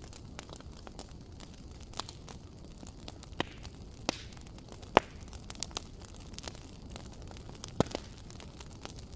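Wood fire crackling and popping over a low steady rumble, with irregular sharp pops, the loudest about five seconds in and another near the end.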